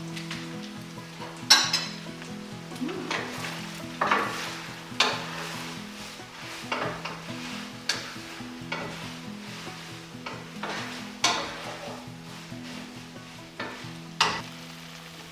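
Noodle stir-fry sizzling in a hot pan while it is stirred and tossed, with about a dozen sharp scrapes and clanks of a cooking utensil against the pan at irregular intervals.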